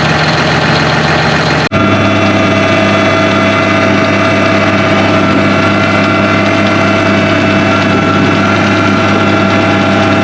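Tractor engine running steadily at low revs, with a steady whine above the hum. The sound changes abruptly just under two seconds in, then carries on steady.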